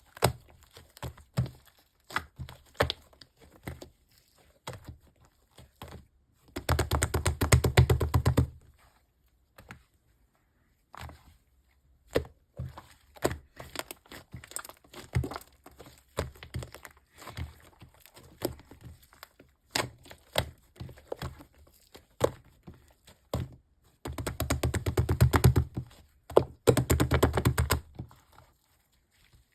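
Marbling slime being squished and pressed by hand, giving scattered sticky clicks and pops. Twice it breaks into dense, rapid crackling pops: for about two seconds near the quarter mark, and for about four seconds near the end.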